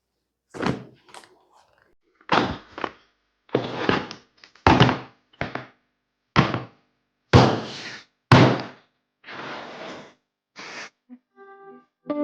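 About ten dull thunks and knocks in a workshop, spaced roughly a second apart. A few pitched music notes begin near the end.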